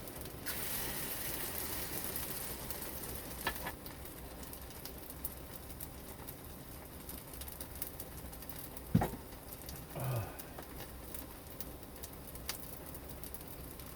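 Light rain pattering steadily, with a few knocks and one louder thump about nine seconds in, and a brief low sound just after it.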